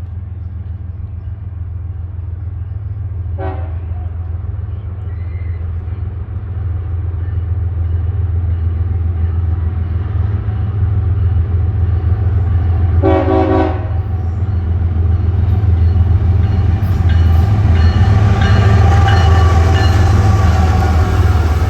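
Diesel locomotive approaching, its low engine rumble growing steadily louder, with a short horn blast just past halfway. Wheel and rail noise builds near the end as the train draws close.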